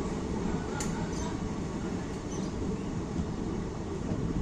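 Steady rumble of a passenger train running, heard from inside the coach, with a faint click about a second in.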